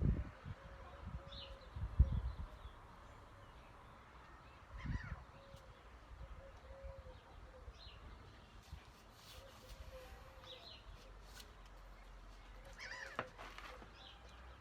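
Faint outdoor bird calls, short chirps now and then, with a few soft thumps in the first five seconds.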